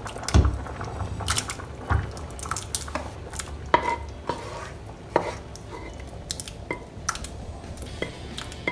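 Cookware clanking and scraping: a utensil knocking against metal pots as a tomato-and-ground-beef mixture is moved into a pot of cooked beans. The knocks are irregular, several with a short metallic ring.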